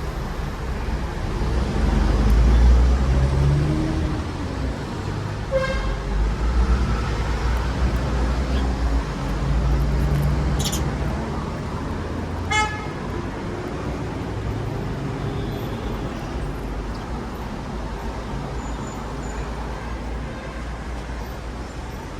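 Steady road-traffic rumble that swells as vehicles pass, with two brief pitched toots, about six and twelve seconds in.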